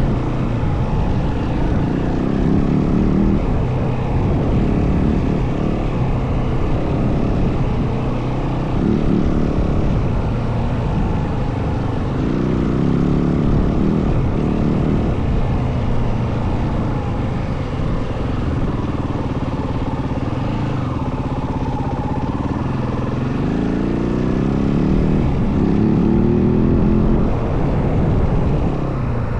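Yamaha WR450F dirt bike's single-cylinder four-stroke engine running under riding load, revving up and easing off again and again, with a longer climb in pitch near the end. A steady low rumble runs underneath.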